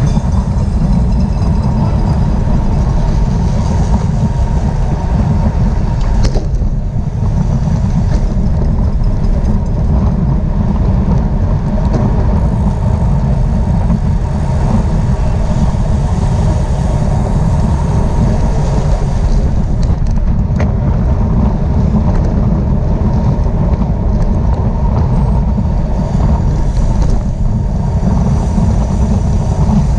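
Steady loud wind rumble on the microphone of a camera riding along in a bicycle road race, with a few faint clicks.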